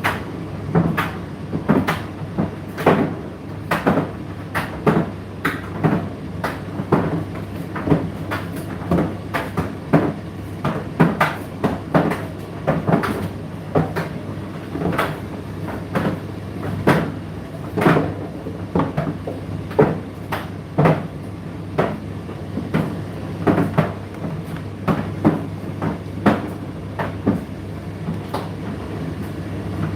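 Indesit IDC8T3 8 kg condenser tumble dryer running mid-cycle: a steady low motor and fan hum under irregular soft thuds of the load dropping in the turning drum, about one or two a second.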